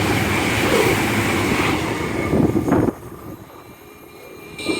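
Train running through a station: a loud rumble of wheels and motors with a faint high whine, cut off abruptly about three seconds in, leaving a much quieter stretch.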